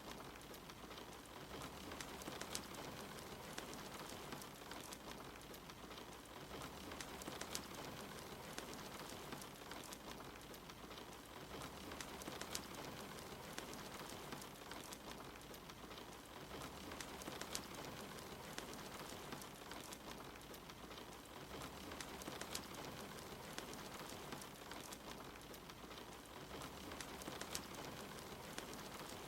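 Steady rain mixed with a crackling wood fire: an even hiss with scattered sharp pops and crackles.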